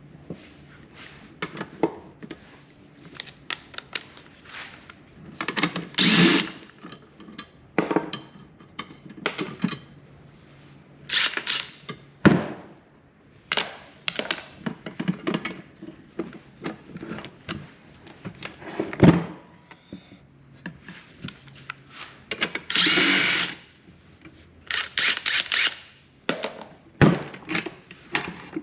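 Handheld power drill/driver running in short bursts of about a second, several times, among knocks and clinks of metal parts and tools being handled, as a table saw's motor and gear assembly is taken apart.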